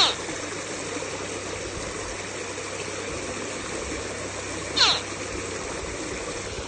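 Baby alligator calling to its mother: two short chirping calls that drop steeply in pitch, one at the start and one about five seconds in, over a steady rushing background.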